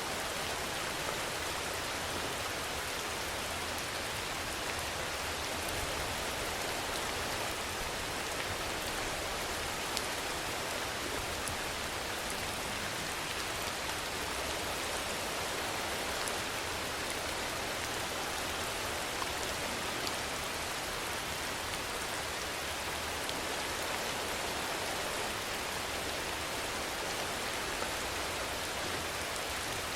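Steady rainfall: an even hiss of rain with a few sharper drop ticks.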